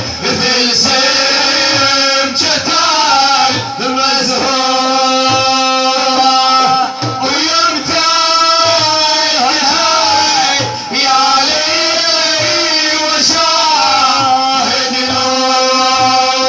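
Middle Eastern devotional song: a male voice singing long, ornamented melodic lines over music with a steady drum beat.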